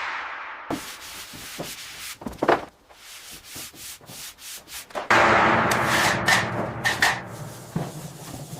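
Irregular rubbing and scraping on a surface with scattered knocks. About five seconds in it turns louder and denser, like steady scrubbing or sanding.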